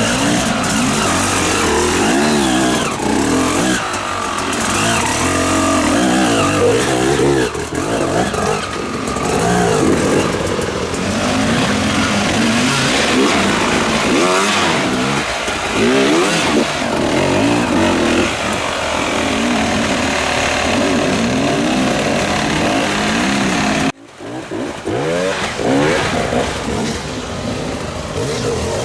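Off-road motorcycle and quad engines revving, with many overlapping engine notes rising and falling in pitch. Near the end the sound drops out abruptly for a moment, then the engines pick up again.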